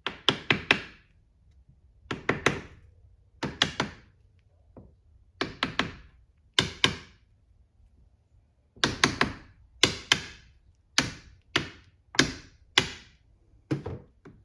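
Hammer blows on metal, knocking a differential bearing cap and adjuster loose: short bursts of several quick strikes, then single strikes about every half second to a second in the later part.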